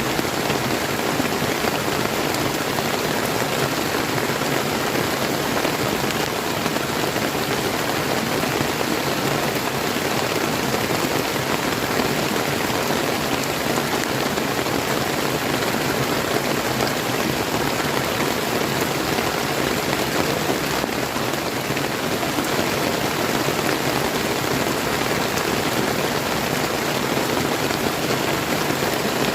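Steady rain falling, mixed with the flowing water of a clear river, at an even level throughout.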